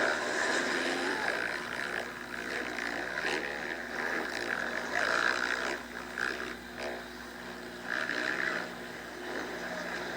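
Motocross dirt bike engines revving and dropping in pitch as riders race around the track.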